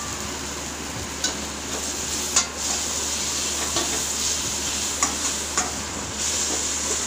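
Sliced onions and chopped tomatoes sizzling in oil in a stainless steel kadai, stirred with a steel ladle that clicks against the pan several times over a steady hiss: the tomatoes are being sautéed into the onion base.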